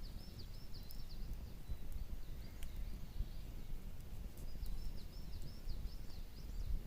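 A small songbird singing short phrases of rapid high notes, one right at the start and a longer one about two-thirds of the way in, over a steady low outdoor rumble.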